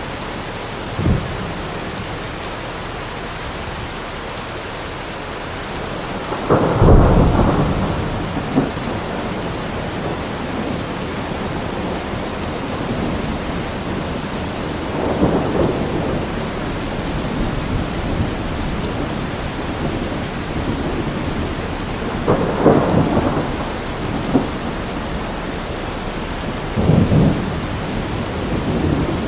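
Steady rain falling, with several rumbles of thunder rising out of it; the loudest comes about seven seconds in, with others around fifteen, twenty-three and twenty-seven seconds in, and a brief low one near the start.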